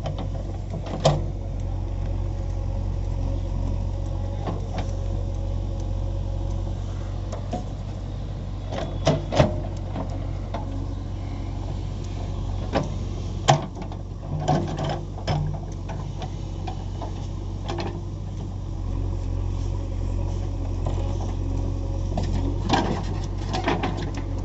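JCB 3DX backhoe loader's four-cylinder diesel engine running steadily, with scattered sharp knocks and clanks from the machine at work, the loudest about thirteen seconds in.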